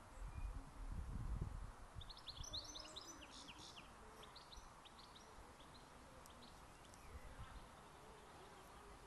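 A small bird twittering in quick, high chirps, busiest from about two seconds in and thinning out over the next few seconds, over faint outdoor background noise. Low rumbles come in the first couple of seconds.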